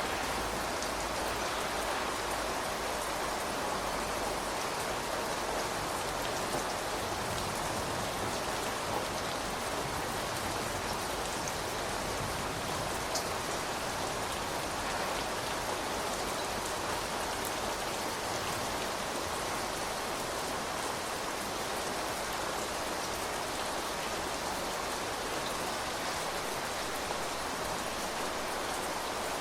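Steady rain falling, an even dense patter with an occasional sharper drop standing out.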